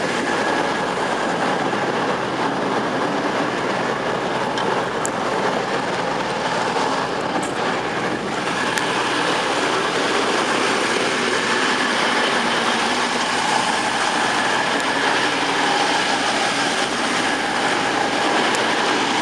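A train running along the rails through the station, a steady loud running noise with a high whine in it that strengthens a little about halfway through.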